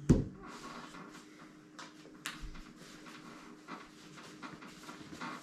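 One sharp knock at the start, then faint scattered clicks and light knocks: spoons, cups and slime-kit containers being handled on a tabletop while slime is mixed.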